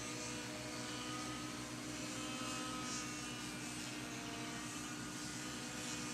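Small electric motor and propeller of a 12-inch foam disc-wing RC plane running in flight, a steady buzz whose pitch drifts slightly up and down.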